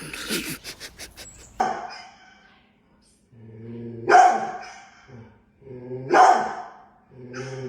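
A dog growling and barking: three low growls, the first two swelling into loud barks, after a few quick clicks and knocks.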